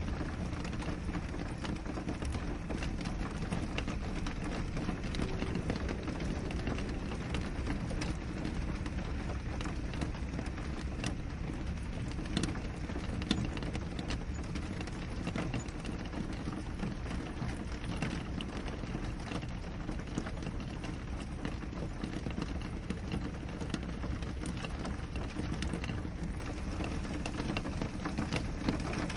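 Steady rain on window glass: an even hiss of rainfall with many small, irregular drop taps throughout and one slightly sharper tap about halfway through.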